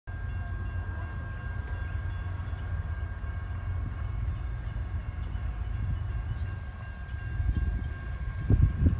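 CSX double-stack container freight train passing, a steady low rumble with a faint steady whine above it and a few heavier low thumps near the end.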